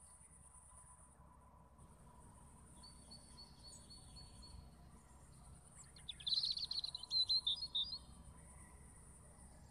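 A bird calling in a quick, chattering run of high notes for about two seconds, starting about six seconds in, over a steady high insect buzz.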